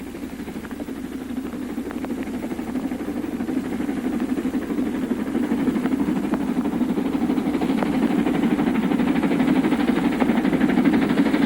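LMS Coronation-class (Duchess) four-cylinder steam locomotive working hard uphill with a heavy express, its rapid exhaust beats merging into a continuous pulsing beat. The sound grows steadily louder as the train approaches.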